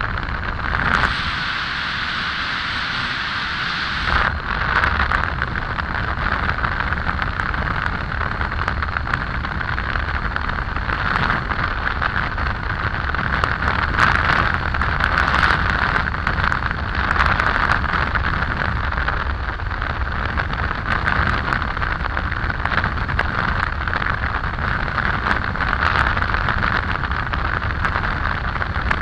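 Triumph Tiger 800 motorcycle on the move: steady wind rush buffeting the microphone over the road and engine noise.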